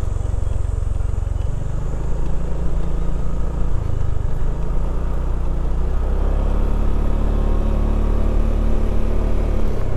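Motorcycle engine running at low road speed, its pitch shifting in steps a few times.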